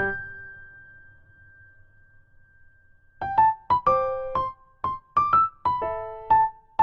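Background piano music: a held chord fades out slowly, then a melody of short, separate notes begins about three seconds in.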